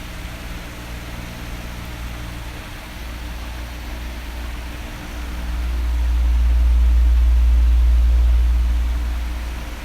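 Electric fan running steadily, a whooshing noise with a low hum underneath. About halfway through, a low rumble of air swells for some four seconds and then fades back.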